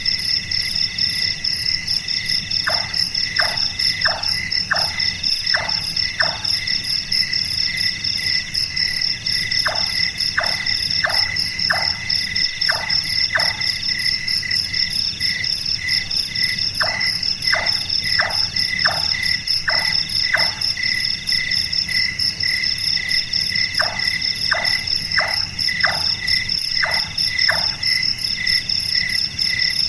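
Large-tailed nightjar calling its knocking 'chonk' notes, which sound like someone chopping or hammering. They come in bouts of about seven evenly spaced notes, two or so a second, with a pause of a few seconds between bouts, four bouts in all and another starting at the end. Under it runs a steady, loud, pulsing chorus of crickets and other insects.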